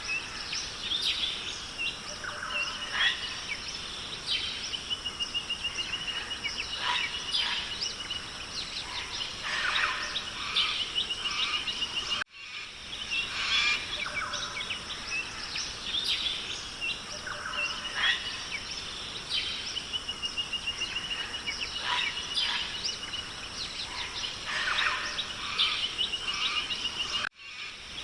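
Rainforest ambience of many birds calling and chirping, among them a rapid trill, over a steady background hiss. The sound cuts out briefly about 12 seconds in and again near the end, where the looped recording starts over.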